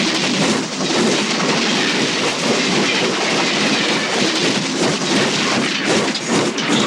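Passenger train running fast on the rails: a loud, steady rush of wheel and track noise, with a quick run of clickety-clack from the wheels over rail joints near the end.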